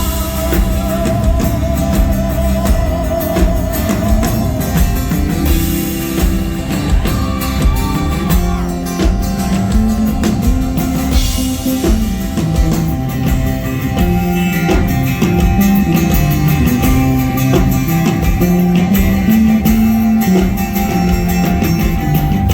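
Live rock band playing an instrumental passage: drum kit, bass and guitar. A long sung note with vibrato carries over and fades out in the first few seconds.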